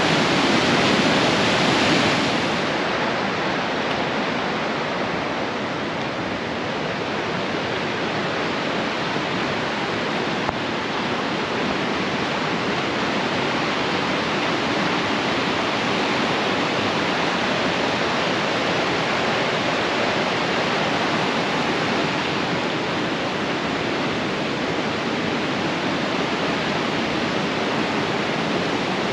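Steady rush of a waterfall, water cascading down a mountain creek, a little louder for the first two seconds and then steady.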